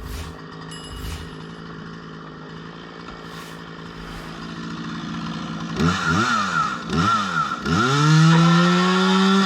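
Husqvarna 236 two-stroke chainsaw idling steadily, then revved in several quick blips from about halfway through, and finally held at high revs near the end.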